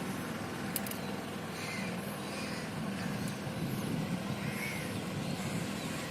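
Boat engine running steadily with a low hum, with a few faint bird chirps above it.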